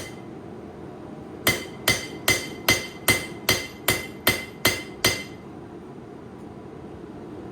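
Hand hammer striking a hot 8670 high-carbon steel knife blank on an anvil while forging it to shape: ten ringing blows at about two and a half a second, starting about a second and a half in and stopping about five seconds in.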